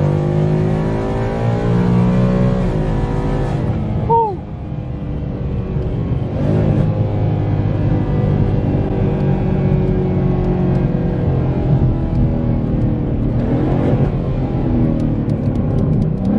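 A Ford Mustang GT's 5.0 V8 heard from inside the cabin while driving. The engine note climbs for the first few seconds, drops abruptly about four seconds in, then runs on at lower revs as the car slows.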